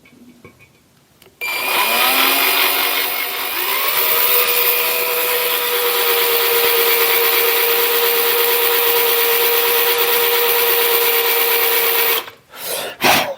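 Electric drill starting up, its whine rising in pitch for about two seconds, then running at a steady speed while a small 93-thousandths drill cuts a shallow hole in a drill press head casting. The drill stops about a second before the end.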